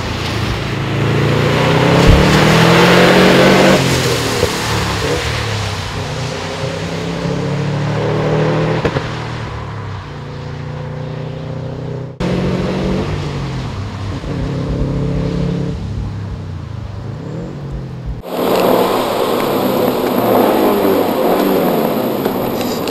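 Subaru Impreza GC8 WRX's EJ20 turbocharged flat-four engine revving hard through the gears, its pitch climbing and dropping with each shift. Near the end the sound is heard from inside the cabin.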